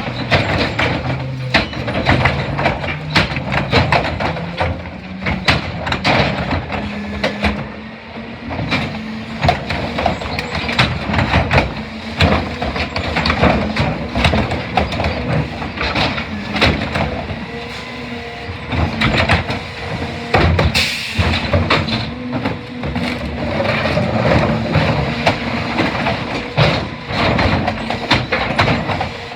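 CNG rear-loader garbage truck (Crane Carrier chassis, New Way body) working at the curb: its engine running steadily under a long string of clanks and knocks from the loading and packing gear, with a short hiss about two-thirds of the way through.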